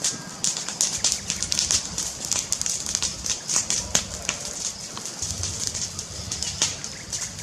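Fire crackling, with rapid irregular sharp pops and snaps over a low rumble; the rumble strengthens a little past the middle.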